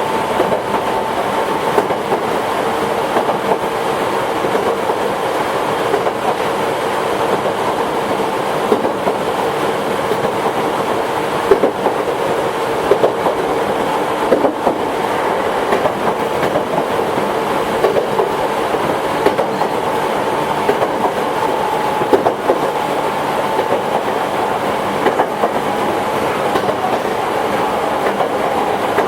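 Toyohashi Railway 1800 series electric train, ex-Tokyu stock, running at a steady speed. A steady whine sits over the rolling noise, broken by irregular clicks of the wheels passing over rail joints.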